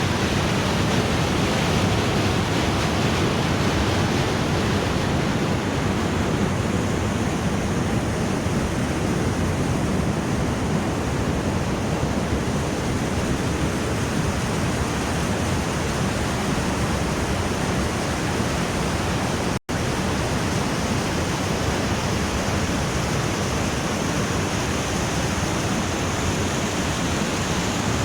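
Putna Waterfall's falling water, a steady loud rush, cut off for an instant about two-thirds of the way through.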